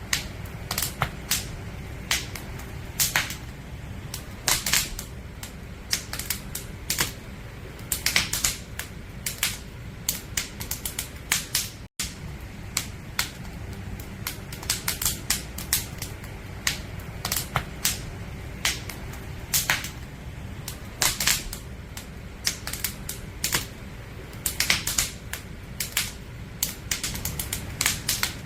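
Wood fire burning with irregular crackles and sharp pops from the firewood over a steady low rumble of the flames. The sound cuts out for a split second about twelve seconds in.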